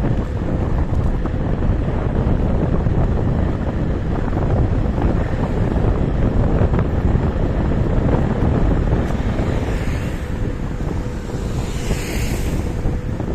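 Wind buffeting the microphone while riding a KuKirin G2 electric scooter, a steady rushing noise with a faint steady tone underneath. A brief hiss rises and fades near the end.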